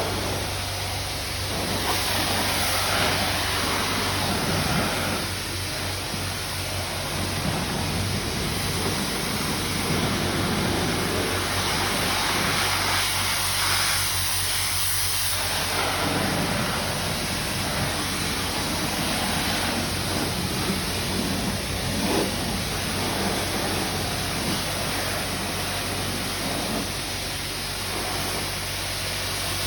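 High-pressure rinse water from a self-serve car wash spray wand hissing against a van, swelling and easing as the spray is moved over the body, over a steady low hum.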